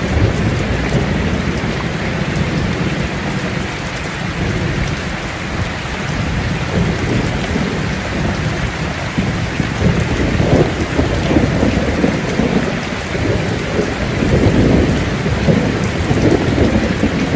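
Steady rain pouring, with low thunder rumbling through it. The rumbling grows stronger after the midpoint.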